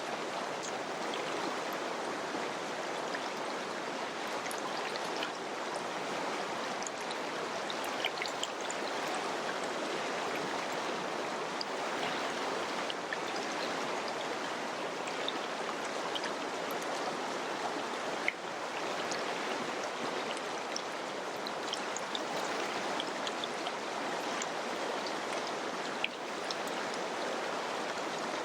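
Mountain river running steadily, a constant rush of water with many small splashes flecking through it.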